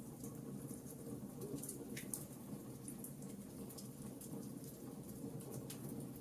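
Log fire burning in a fireplace: a steady low rumble of flames with frequent, irregular sharp crackles and pops from the burning logs.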